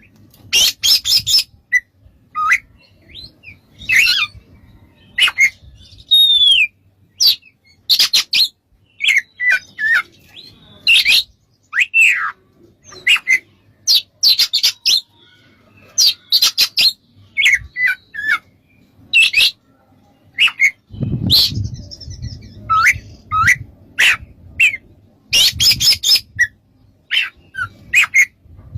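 Oriental magpie-robin singing: a rapid, varied string of short whistles, sliding notes and harsh rasping chatter with brief gaps between phrases.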